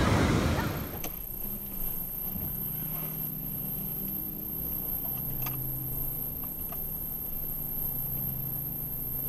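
Ocean surf fades out in the first second. Then a car's low, steady engine hum is heard from inside the cabin as it rolls slowly, with a faint high-pitched whine and a few soft clicks.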